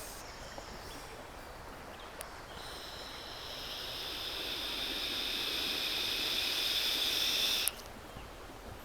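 Shallow river current running steadily. About two and a half seconds in, a high buzzing sound rises in, grows louder, and cuts off suddenly near the end.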